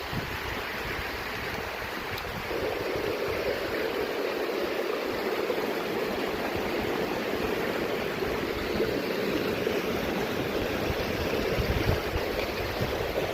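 Stream water rushing steadily, growing louder about two and a half seconds in.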